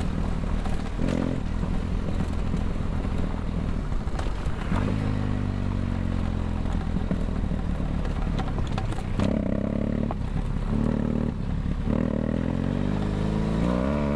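BMW F800GS parallel-twin engine through a LeoVince LV One Evo stainless exhaust, heard onboard while riding. The engine pitch falls and rises with the throttle, with several short throttle pulls in the second half.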